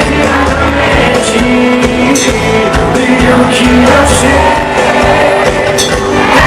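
Live sertanejo band music played loud through a PA, with a sung melody over bass, drums and cymbals.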